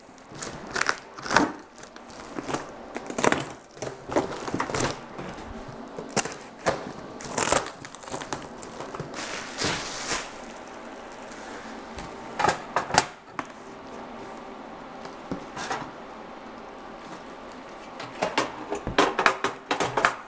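A taped-up parcel being unwrapped by hand: packing tape and wrapping torn off and crumpled in irregular rips and rustles, with a quieter spell about two-thirds of the way through.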